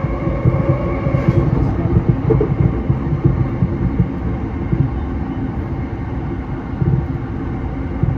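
Electric commuter train running on the track, heard from inside the carriage: a steady low rumble of wheels on rail with uneven low knocks.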